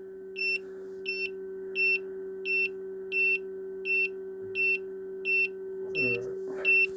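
Small egg incubator's electronic alarm beeping: a short high-pitched beep repeating evenly about every 0.7 seconds, over a steady low electrical hum.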